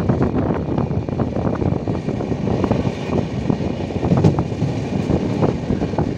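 Passenger train running at speed, heard from inside a coach: a steady rumble with frequent irregular clanks and clicks from the wheels on the rails.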